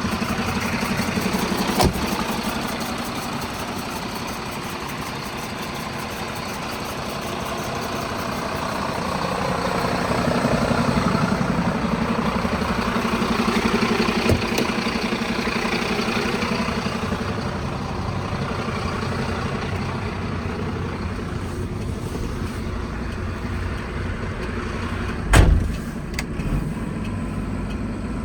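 Diesel engine of a Mercedes-Benz Atego 1524 road-sweeper truck running steadily. The sound swells for several seconds in the middle and then settles back. There are a few sharp knocks, the loudest near the end.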